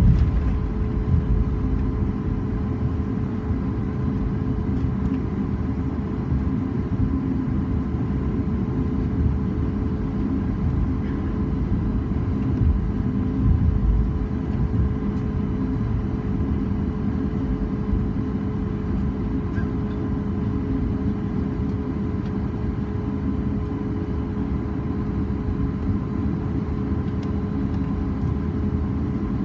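Cabin noise inside a Boeing 737 MAX 8 on the ground after landing: a steady low rumble with a steady whine from the CFM LEAP-1B engines at idle, with a couple of brief louder rumbles about halfway through.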